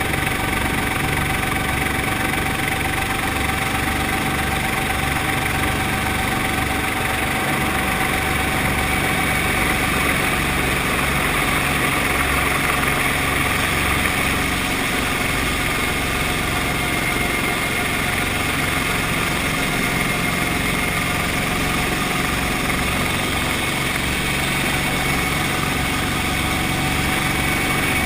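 Brantly B2B helicopter's four-cylinder Lycoming piston engine and rotor running steadily: a constant whine over a low pulsing beat.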